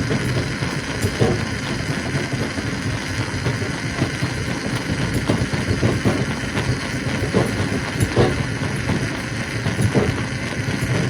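Stone crusher running: a steady low rumble with irregular knocks and clatter of rock through it.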